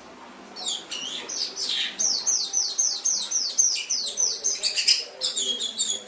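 Domestic canary singing: a fast run of repeated down-sweeping notes, about five a second, starting about half a second in, breaking into a quicker burst of notes near the end.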